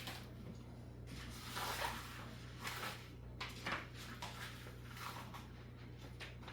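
Sailcloth and tape being handled: a few short rustles and scrapes at irregular intervals over a steady low hum.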